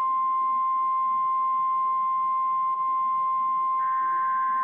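NOAA Weather Radio 1050 Hz warning alarm tone: one loud, steady, unbroken beep that signals a warning message is about to follow. A fainter buzzing burst joins under it near the end.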